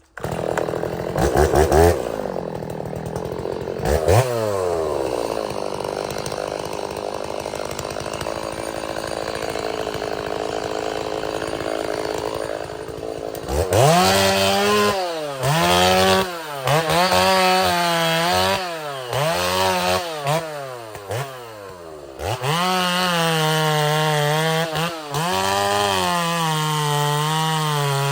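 Gas chainsaw cutting wood: it runs steadily at first, then from about halfway in the throttle is opened and released over and over, the pitch rising and falling with each cut.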